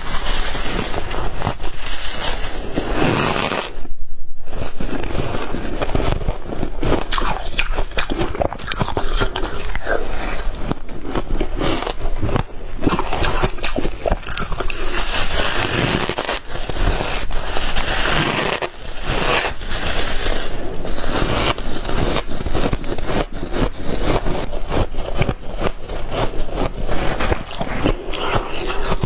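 White ice being bitten and crunched between the teeth close to the microphone, a dense run of irregular cracking and crunching.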